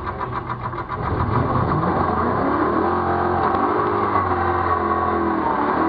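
Rover SD1's Rover V8 engine heard from inside the cabin, pulsing evenly at low revs, then about a second in revved hard, its pitch climbing and falling back several times as the car accelerates.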